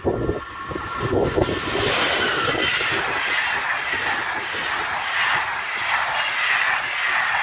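A train passing on the rails: a steady rush of wheel-on-rail noise that swells up about a second and a half in and holds, its pitch sliding slowly downward.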